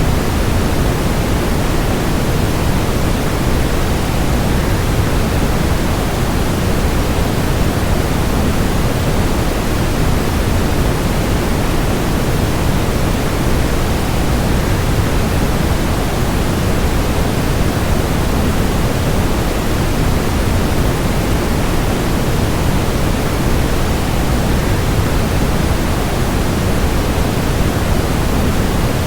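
Waterfall sound blended with white noise: a steady, even rush with no breaks or changes, fuller in the low range than a plain hiss.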